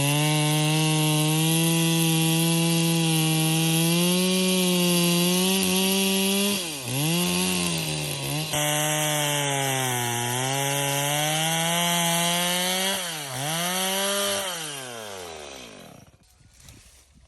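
Two-stroke chainsaw running at high revs, cutting firewood. Its pitch dips and recovers twice. Near the end the engine note falls away steadily and stops.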